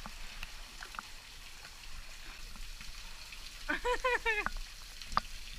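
Steady rush of flowing water, with a person's voice calling out briefly about four seconds in.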